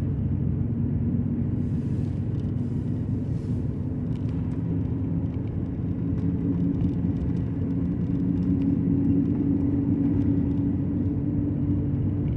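Dodge Ram pickup running, heard from inside the cab as a steady low rumble. Its pitch and level rise slightly about halfway through.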